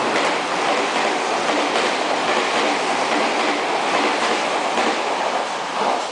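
Meitetsu electric train running past at speed, a loud steady rumble and rush of wheels on rail with faint clicks, easing off slightly near the end.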